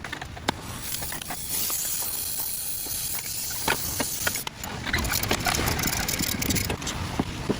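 Sped-up workshop sounds of car muffler work: scattered metallic clicks and knocks over a hissing noise.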